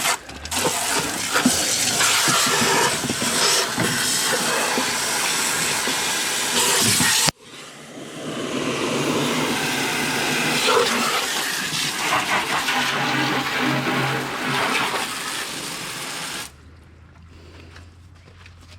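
Garden hose spraying water against a lawnmower deck, washing out caked wet grass clippings: a steady rushing spray that breaks off abruptly about seven seconds in and then starts again. Near the end the spray stops, leaving a faint low hum.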